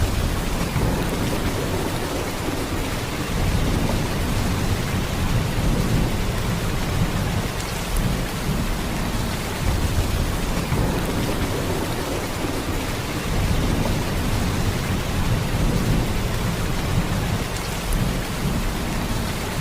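Heavy rain pouring steadily: a dense, even hiss with a deep low rumble beneath it, swelling and easing slightly every few seconds.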